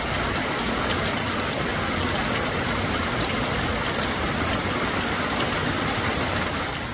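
Heavy rain pouring steadily onto a Kodiak two-person tent, with a continuous hiss of rainfall and sharp drop ticks.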